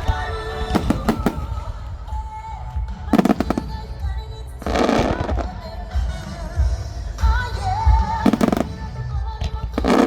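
Aerial fireworks shells bursting with deep booms and rumbling. Bursts of crackling come about 3, 5, 8 and 10 seconds in, the one near 5 seconds the longest. Music plays underneath.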